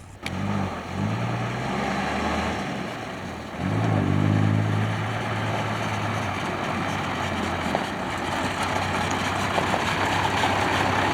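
The engine of a 1963 2½-ton water truck catching just after the start and running unevenly for about a second. It is revved briefly about three and a half seconds in, then settles to a steady idle.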